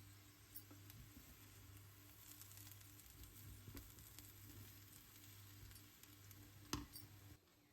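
Faint, steady sizzling of food frying in a pan, with a low hum underneath and a single sharp click near the end.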